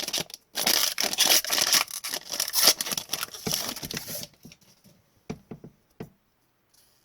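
Foil trading-card pack wrapper crinkling and tearing for about four seconds, then a few light taps of cards being handled that stop about six seconds in.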